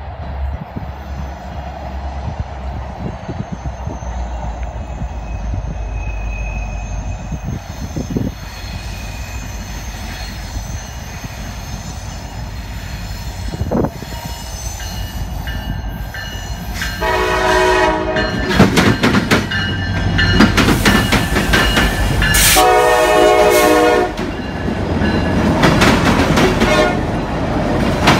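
Norfolk Southern freight train approaching with a low diesel rumble that grows louder. The locomotive's horn sounds two long chord blasts a few seconds apart, past the middle. Near the end comes the rumble and wheel clatter of tank cars rolling past.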